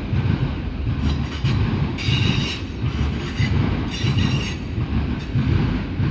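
Freight train of covered hopper cars rolling past, with a steady low rumble and a rhythmic clatter from the wheels. High metallic wheel squeals come three times, at about one, two and four seconds in.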